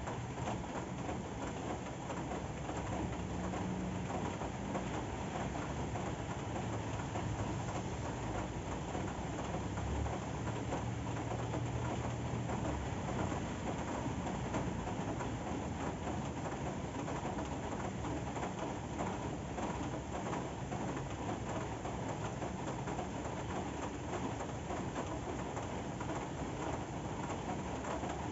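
Steady rain falling, an even, unchanging hiss of drops on surfaces.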